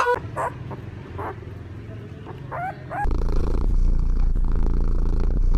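Domestic cat purring, a low steady rumble that gets louder and closer about three seconds in, with a few faint short chirps before that.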